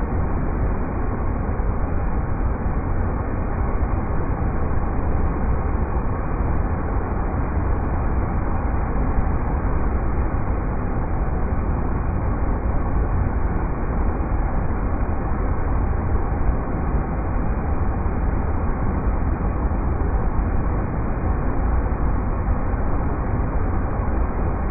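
River rapids rushing: a steady, unbroken wash of water noise, heaviest in the low end, with no changes.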